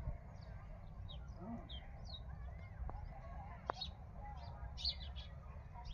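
Small birds chirping, short high chirps several times a second, over a steady low rumble, with two sharp clicks in the middle.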